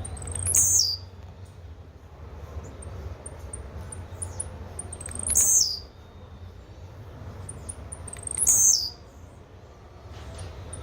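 Blue-black grassquit (tiziu) singing: three short songs a few seconds apart, each a few faint high ticks leading into a loud buzzy note that drops in pitch.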